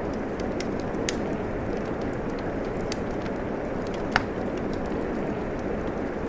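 Steady rain mixed with a crackling wood fire. Sharp pops sound about a second in and, loudest, about four seconds in.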